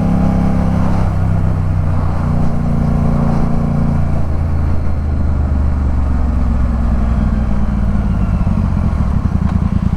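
Yamaha MT-07's 689 cc parallel-twin engine running under way, its pitch shifting a couple of times in the first few seconds, then holding steady, and settling into a slow, even low-rev beat near the end.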